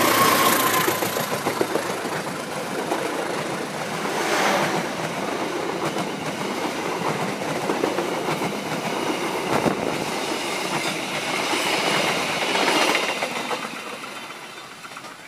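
Diesel-hauled express passenger train passing close at speed. It is loudest as the locomotive goes by at the start, then the carriages roll past with a steady loud rush of wheels on the rails, fading away over the last couple of seconds as the final carriage draws off.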